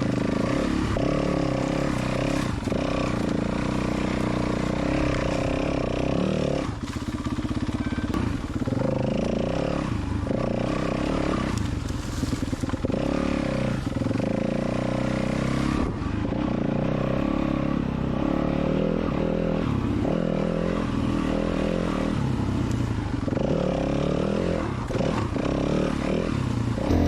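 Dirt bike engine running as the bike is ridden, its pitch repeatedly rising and falling with the throttle.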